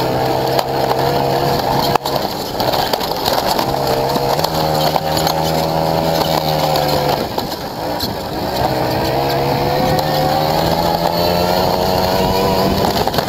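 Motorcycle engine heard on board under hard riding: the pitch climbs steadily three times, with short drops about two seconds in and about seven seconds in, against steady wind rush.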